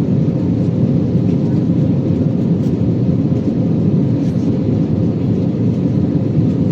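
Steady, loud cabin noise inside an Airbus A320 under power: jet engine and airflow noise heard from a passenger seat, low and even with no change in pitch.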